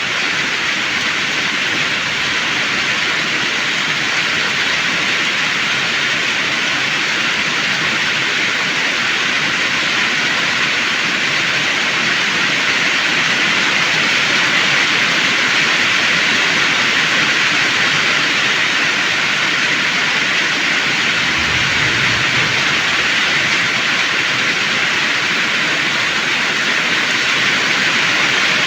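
Heavy rain pouring down in a steady loud hiss, with a brief low rumble about three-quarters of the way through.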